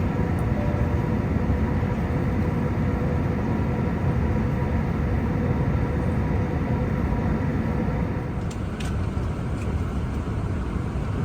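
Steady roar of cabin noise inside an Airbus A380 airliner in flight, with faint steady tones in it. A couple of light clicks come about eight and a half seconds in.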